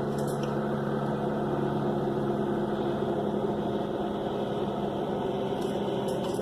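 Steady low mechanical hum of several even tones, unchanging throughout.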